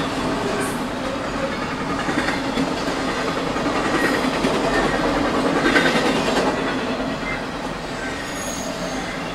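Double-stack intermodal freight train passing at speed over a grade crossing: a steady rumble and rattle of steel wheels on the rails, with the clickety-clack of the cars going over the rail joints.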